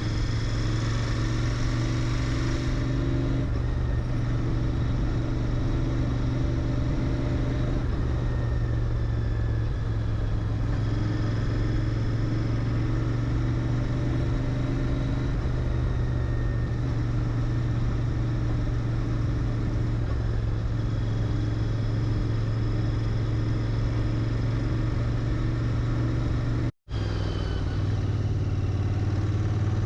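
Royal Enfield Interceptor 650's parallel-twin engine through its stock muffler, running at a steady cruising pace. The note holds steady, cuts out for a split second near the end, and resumes a little lower in pitch.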